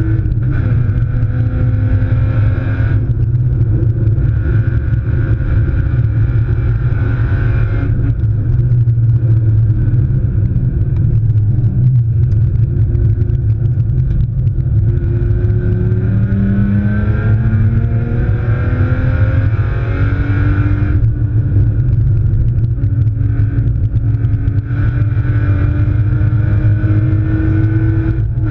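BMW E36 328i's 2.8-litre straight-six engine at race pace, heard from inside the cabin. Its pitch climbs repeatedly under acceleration and drops sharply at gear changes and braking, notably about 20 seconds in and again near the end.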